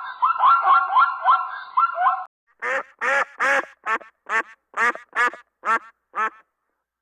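Duck quacking in a steady series, about two quacks a second, nine in all, starting a little over two seconds in. Before that, a fast warbling call rising in pitch about five times a second cuts off.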